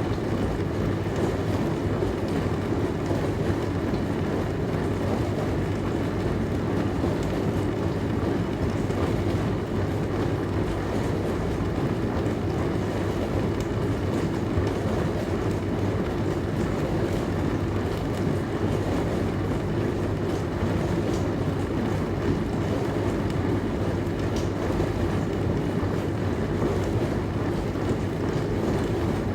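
Dishwasher running: a steady hum and rush of machine and water noise that stays even throughout.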